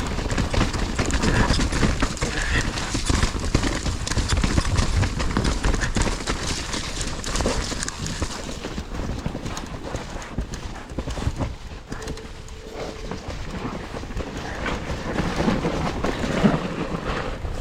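Mountain bike clattering and rattling down a rough, rooty trail, with a rapid, uneven run of knocks from the wheels and frame over a low rumble.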